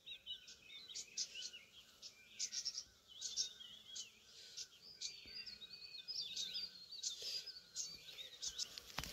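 Several small birds chirping and singing, with many short repeated chirps and warbled notes overlapping. A soft knock near the end.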